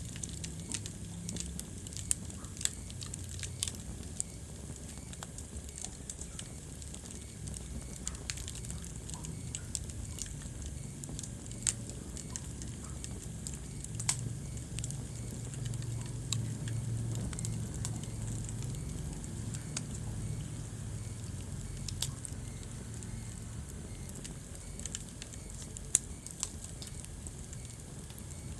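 Wood fire crackling in a fireplace, with sharp pops at irregular moments over a low, steady rumble of the flames.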